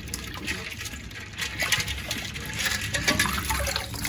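Liquid splashing and trickling in a soup pot, with irregular small splashes throughout, as chicken broth is poured in.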